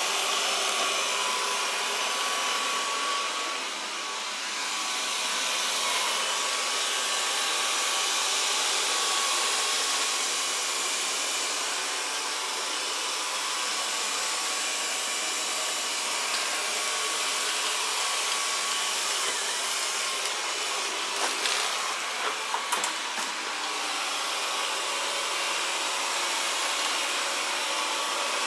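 Xiaomi Mijia robot vacuum cleaning, its suction fan and brushes making a steady whir, with a short cluster of knocks about three-quarters of the way through.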